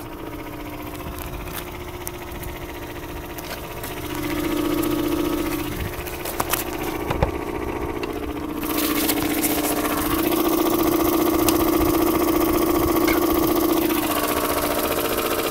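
2003 Mazda Protege5's 2.0-litre four-cylinder engine idling, with a steady pitched hum that swells louder twice, and a rushing noise that joins about nine seconds in. This is the odd noise the owner takes for the alternator bearing.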